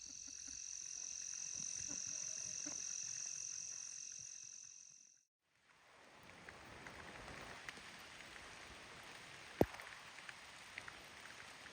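Steady high-pitched insect chorus, crickets or cicadas, that cuts off abruptly about five seconds in. After a moment of silence, steady rain hiss with scattered drips and one sharp tap a couple of seconds before the end.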